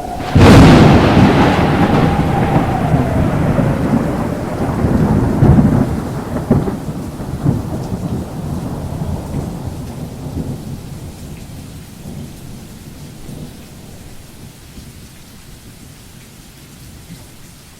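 A thunderclap: a sudden crack about half a second in, then a long rolling rumble with further cracks around five and six seconds in, fading away over the following ten seconds, with steady rain throughout.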